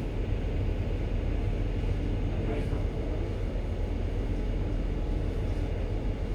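Ship's engine running with a steady low rumble and hum while the ship manoeuvres slowly to berth.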